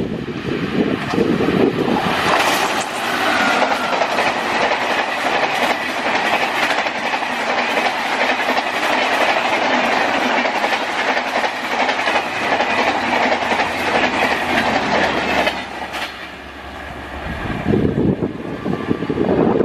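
A train passing close by at speed, its wheels clattering over the rail joints. The clatter dies down about sixteen seconds in, and a lower rumble follows near the end.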